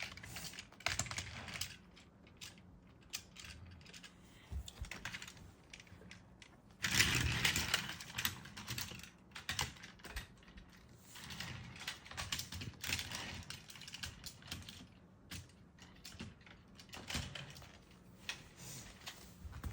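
Plastic Plarail toy trains and track pieces being handled, with irregular light clicks and clatter and a louder burst of handling about seven seconds in.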